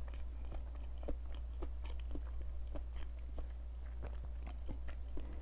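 Chewing crispy breaded vegan fried chicken nuggets: a run of crunches, about two a second, over a low steady hum.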